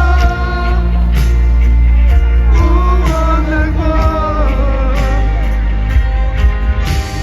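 Live pop concert music: a sung melody over a full band, with deep sustained bass and a steady drum beat about once a second.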